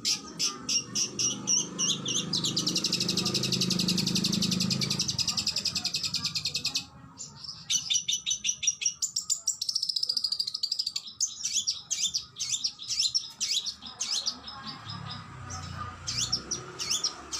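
Oriental magpie-robin (kacer) singing. It delivers a fast, even trill of sharp repeated notes for several seconds, breaks off abruptly, then carries on with a quick string of varied chattering and whistled phrases.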